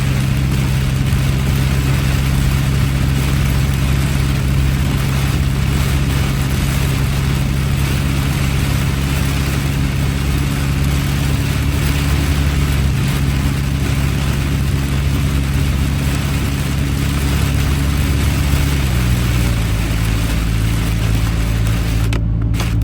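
Car cabin while driving in heavy rain: a steady low engine hum under a constant hiss of rain and tyres on the wet road. About nineteen seconds in, the engine note drops slightly.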